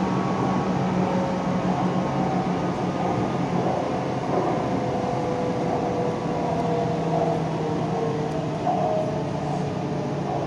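Running noise inside a BTS Skytrain car in motion: a steady rumble with a low hum and a higher motor whine that drift slightly in pitch.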